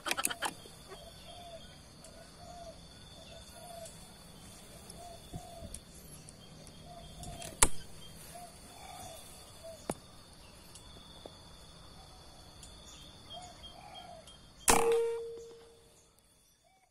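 Steady insect buzz with a spotted dove cooing faintly and repeatedly. A sharp shot crack comes about seven and a half seconds in, a smaller crack near ten seconds, and a loud shot with a brief ringing tone near the end.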